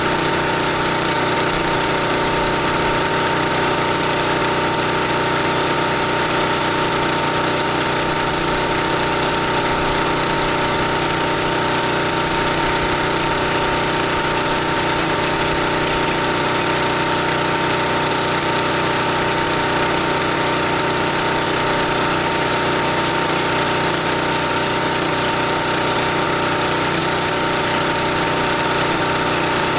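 Pressure washer engine running steadily under the even hiss of a water spray, as the house is rinsed.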